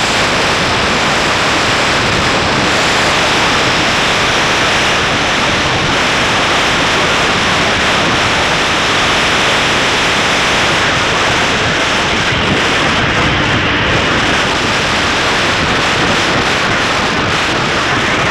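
Loud, steady wind rush buffeting an action camera's microphone on a Honda CBR600F at high speed, with no distinct engine note standing out above it.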